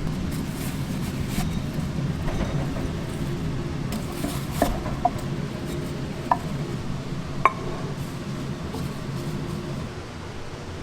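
Dishes and cutlery clinking over a steady low background hum, with four sharp clinks in the middle, the last the loudest.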